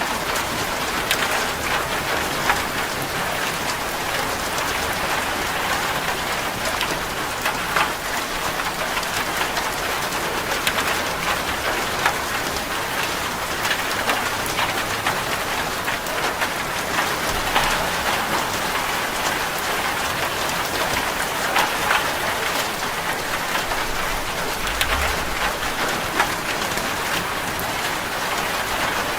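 Steady heavy rain drumming on a corrugated zinc metal roof, a dense even patter with many sharp individual drop ticks.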